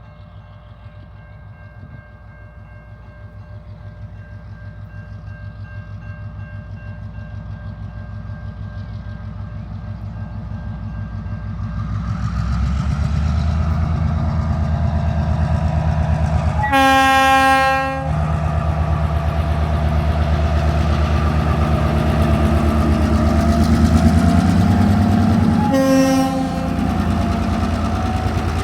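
TasRail diesel locomotive 2009 approaching, its engine growing steadily louder, then sounding its horn twice: a blast of just over a second and a shorter one several seconds later. The engine stays loud as it passes.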